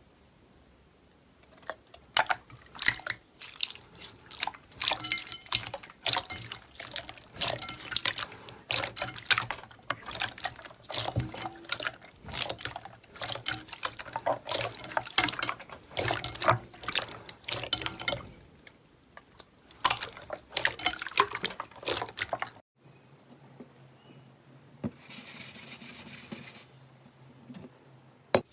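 Slime being squeezed and pressed by hand: a long run of wet clicks and pops, followed near the end by a brief steady hiss.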